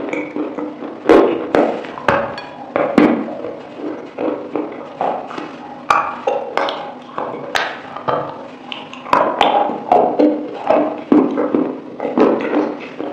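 Close-miked chewing of chicken wings: an irregular run of wet smacks, sharp mouth clicks and soft crunches, with a fresh bite about six seconds in.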